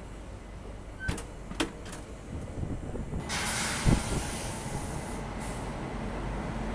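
Passenger express train pulling out of a station and gathering speed, its coaches rolling with a steady low rumble. A few sharp clicks come in the first two seconds. About three seconds in, a loud rushing noise sets in as it runs close alongside a line of parked goods wagons, with a thump just after.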